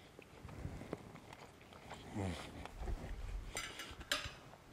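A man chewing a bite of scallop with soft mouth sounds and a low, falling 'mm' of appreciation about two seconds in. Near the end, a metal fork clinks and scrapes against a ceramic plate.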